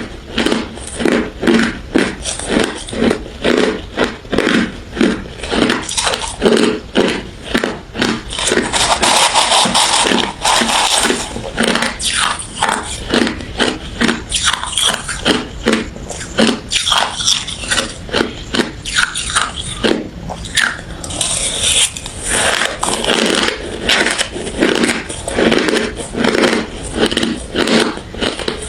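Close-up chewing and crunching of refrozen crushed ice, about two crunches a second, with a denser stretch of steady grinding about a third of the way through.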